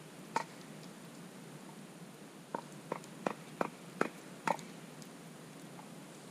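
Campfire wood crackling: a sharp pop under half a second in, then a quick run of six pops about two seconds later, over a low steady hiss.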